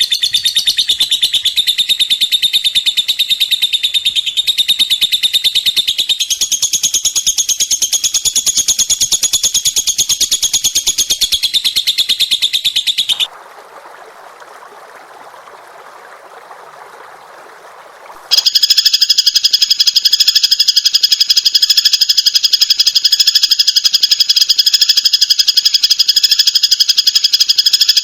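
Recorded songbird song: a dense, very rapid high-pitched trill. It breaks off about 13 seconds in for a few seconds of faint hiss, then a different, buzzier rapid trill starts up at several steady pitches and runs on.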